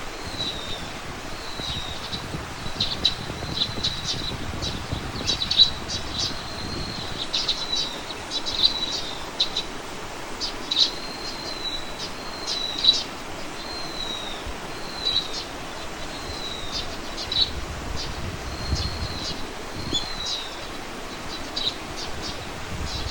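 A small bird calling over and over with short high chirps and brief slurred whistles, at times several a second, over a soft low wind rumble.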